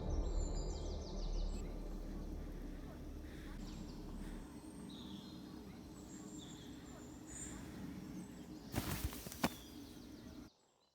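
Faint outdoor ambience with scattered short bird chirps as the music trails off, then a few sharp clicks shortly before the sound cuts off abruptly.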